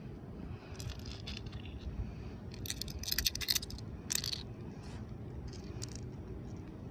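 Light clinking and rattling of small hard objects being handled, in scattered bursts, over a steady low outdoor rumble.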